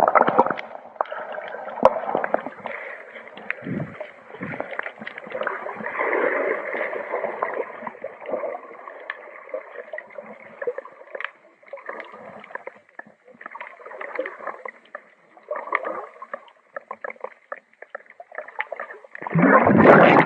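Muffled water splashing and gurgling around a swimmer in the sea, with many small knocks and crackles, swelling and dying away unevenly.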